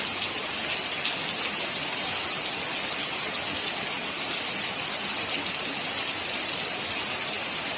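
Steady heavy rain pouring down with an even hiss.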